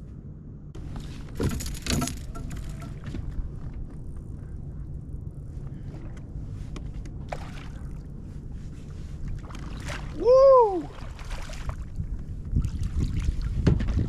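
Small sounds of fishing from a kayak over a steady low hum: a couple of sharp knocks on the hull about one and a half to two seconds in. Near the end a man shouts a loud 'Woo!', the loudest sound.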